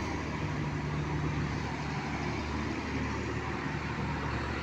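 Heavy truck's diesel engine running steadily at a constant low pitch.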